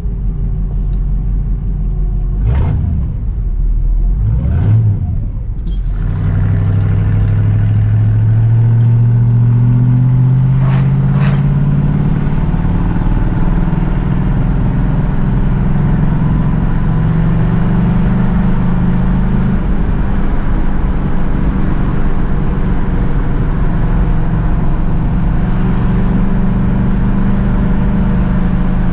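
1967 Pontiac Firebird's V8 engine under way. From about six seconds in it pulls up through the revs in one long rise, then settles into a steady cruise with small changes in throttle.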